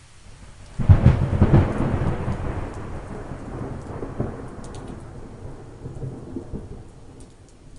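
A thunderclap breaks suddenly about a second in and rolls on as a deep rumble that slowly fades over the next several seconds, over a steady hiss of rain.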